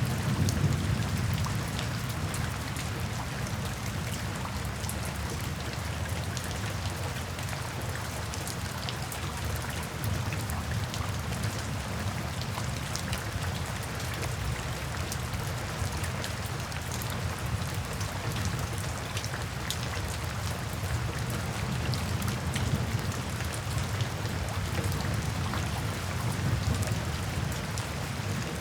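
Steady rain pattering, with many small drop ticks over an even hiss. A low rumble of distant thunder sits beneath it, swelling near the start and again later on.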